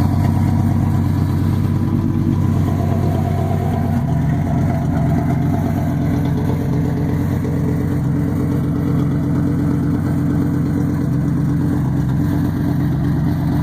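1993 Cadillac DeVille's V8 idling steadily and loudly, its exhaust escaping through a big hole in the muffler, which gives it a straight-piped sound. The tone shifts slightly about four seconds in.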